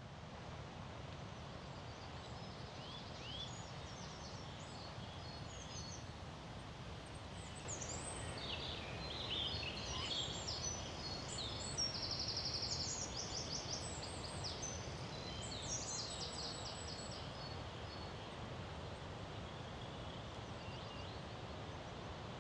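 Small birds singing: short chirps and warbled phrases, with a fast trill about halfway through, over a steady low outdoor background noise.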